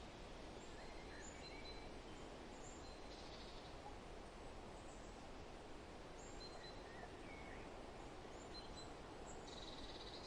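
Forest ambience: a faint, steady rustle of wind, with scattered short, high bird chirps. There are two brief buzzy trills, one about three seconds in and one near the end.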